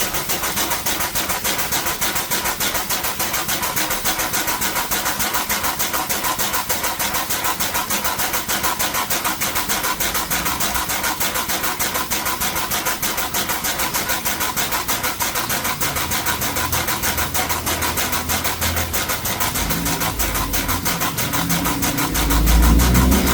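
ARO 66605J-344 air-operated double-diaphragm pump test-running after an overhaul, its air valve exhausting in a rapid, steady stream of hissing pulses. A low rumble builds in over the last few seconds.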